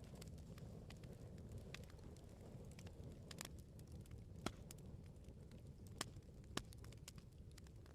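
Wood bonfire crackling: irregular sharp pops and snaps over a low, steady rumble of the flames, with a few louder pops in the second half.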